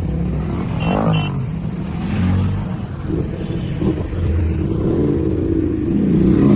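Superbike engine running, its pitch rising and falling a few times as the throttle is blipped.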